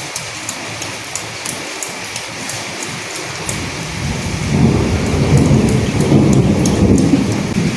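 Steady rain with individual drops ticking, and a low rumble of thunder building about halfway through and rolling on for a few seconds before easing.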